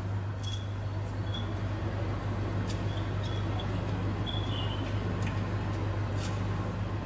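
Steady low mechanical hum, with a few faint short high chirps and light clicks now and then.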